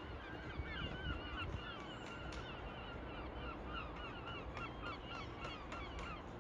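A flock of birds calling over and over, with many short honking calls overlapping.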